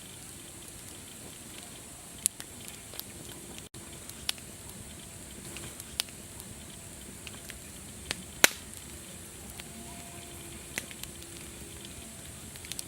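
Wood fire crackling over a steady hiss, with scattered sharp pops, the loudest about eight and a half seconds in.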